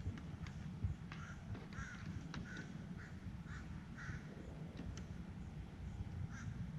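A bird calling: a run of short calls, several in a row about half a second apart, over a steady low rumble, with scattered sharp ticks.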